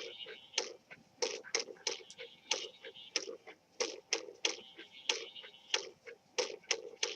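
Irregular sharp taps, about two or three a second, each short and clicky.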